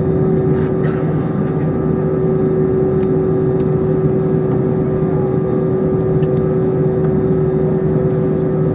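Steady cabin noise inside an Airbus A320: an even rush of air with a constant drone of the jet engines, several fixed tones that hold without change.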